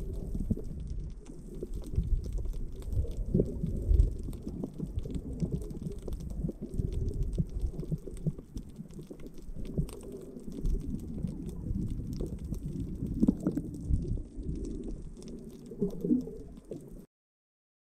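Muffled, irregular low rumbling and sloshing of water around a camera held underwater while swimming, with scattered faint knocks and bubbling. It stops abruptly near the end.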